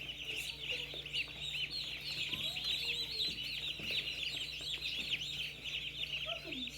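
A crowd of day-old broiler chicks peeping constantly, many high chirps overlapping at once, over a steady low hum.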